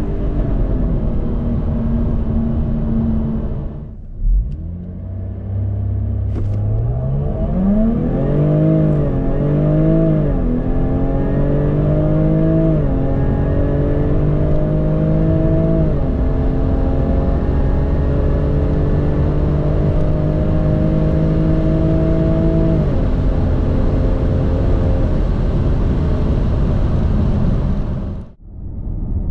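A sports car's engine accelerating hard through an automatic gearbox: the revs climb and drop back at each upshift, about five times, then hold a steady, slowly rising pitch. A single knock comes about four seconds in.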